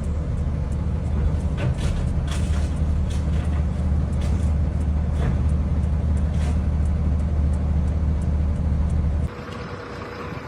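A motor vehicle driving, a steady low road and engine rumble with a few faint clicks. It cuts off abruptly about nine seconds in, and a quieter scene follows.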